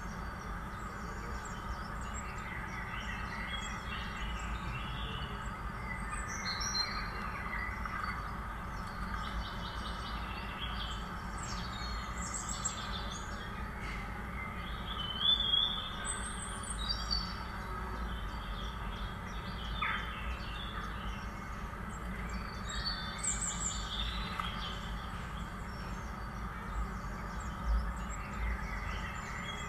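Small birds chirping over a steady rural background hiss, with a cluster of louder chirps about halfway through and another near the end.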